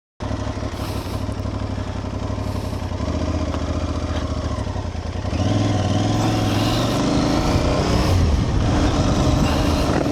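Aprilia Tuareg 660's parallel-twin engine running under way, getting louder about five seconds in as the throttle opens.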